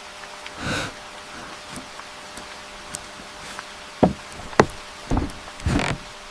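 A brief soft rustle about a second in, then a series of sharp knocks in the second half, about four of them spaced roughly half a second apart.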